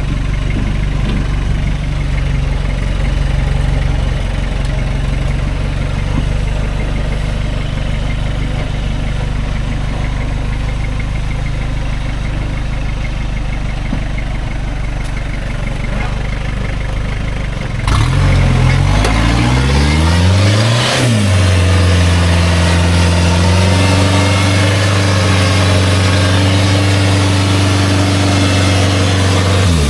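Turbo-diesel four-wheel-drive engine working at low revs while crawling, then revved harder about eighteen seconds in, its pitch swinging up and down before settling at a steady, higher, louder note.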